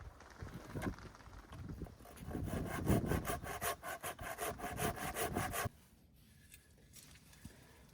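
Hand saw cutting through a firewood log in quick back-and-forth strokes. It is quieter for the first two seconds, then loud and steady, and it stops abruptly about two seconds before the end.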